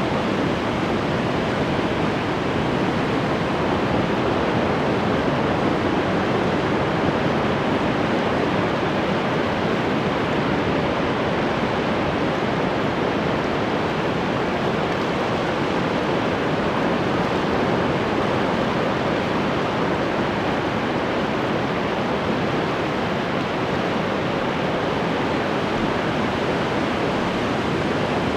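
Ocean waves breaking and washing on the shore, a continuous steady rush of surf with gentle swells in loudness.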